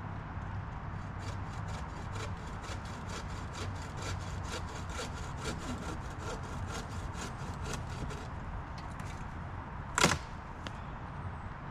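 Hand saw cutting through a wooden branch in quick, even strokes, about three or four a second. About ten seconds in, a single loud, sharp crack.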